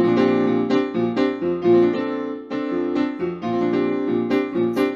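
Piano playing the upbeat introduction to a song, chords changing on a steady beat.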